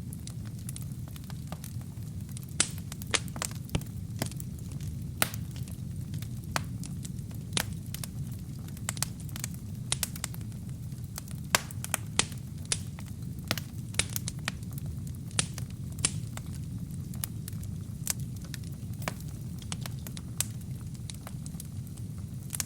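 Wood and kindling fire burning in a fireplace: a steady low rumble of flames with frequent sharp, irregular crackles and pops.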